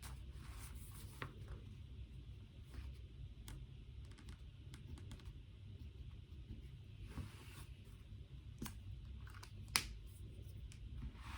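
Quiet desk work while studying: scattered small clicks and taps, with soft rustles of paper, over a low steady room hum. One sharper click stands out near the end.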